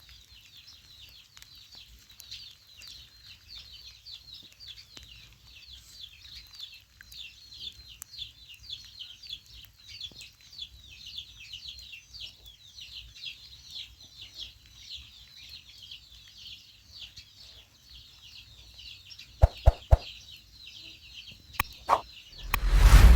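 A dense chorus of small birds chirping rapidly and without a break. A few sharp knocks come near the end, then a loud rushing burst at the very end.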